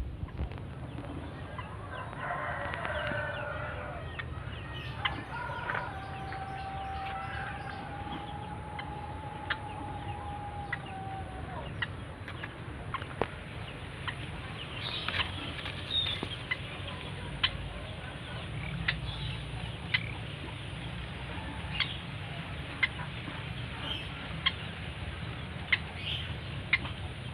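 A rooster crows about two seconds in, then a long held note sounds from about six to eleven seconds. Short sharp clicks are scattered throughout over a steady low rumble.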